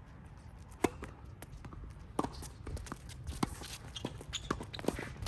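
Scattered sharp knocks and clicks of tennis play, with one loud hit about a second in, over a low rumble of strong wind buffeting the microphone.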